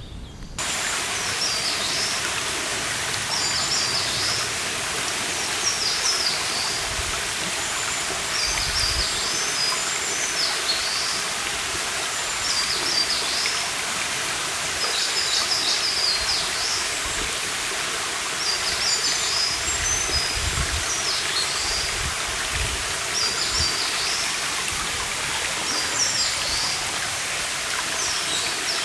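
Steady rush of a forest stream, setting in abruptly about half a second in. Over it a small songbird repeats a short, high chirping phrase every second or two.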